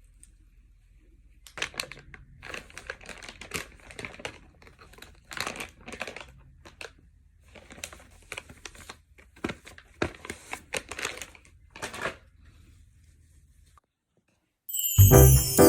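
Irregular crinkling and rustling with scattered clicks, as of something being handled close to the microphone. Piano music starts near the end.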